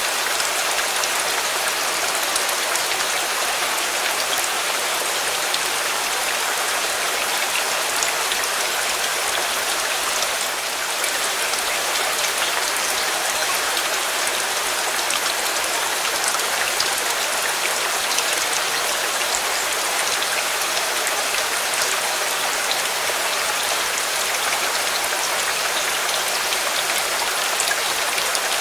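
Steady rain falling, an even hiss with scattered small ticks of drops hitting a surface.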